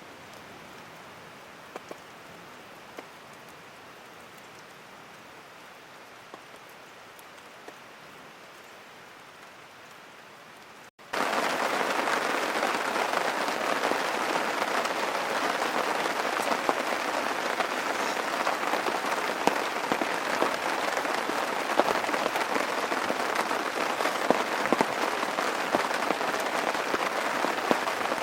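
Steady rain falling, soft at first; after an abrupt cut about eleven seconds in, heavier and much louder rain with scattered drop clicks.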